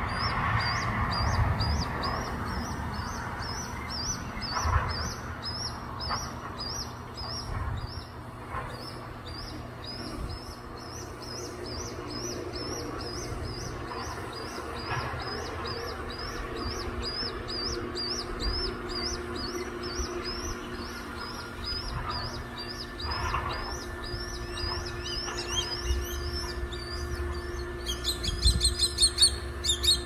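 A young bird calling to be fed: a short, high call repeated about two or three times a second without a break. Near the end the calls come louder and thicker, with several calls overlapping.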